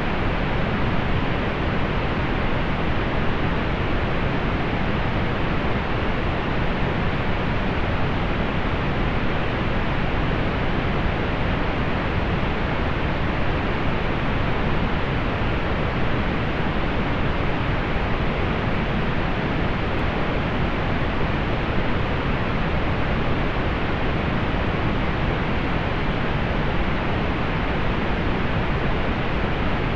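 Steady synthetic pink noise: an even, unchanging hiss with most of its weight in the lows, soft in the highs.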